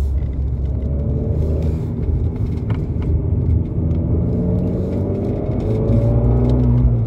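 Abarth 595C's turbocharged 1.4-litre four-cylinder with a Record Monza exhaust, heard from inside the cabin, running under load with a deep rumble. Its pitch climbs steadily through the second half as the car accelerates, then drops abruptly near the end at a gear change.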